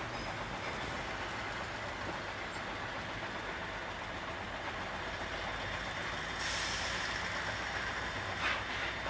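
Container truck running on the road, a steady engine hum under road noise, with a loud hiss starting about six and a half seconds in and lasting over a second, then a short sharp hiss near the end.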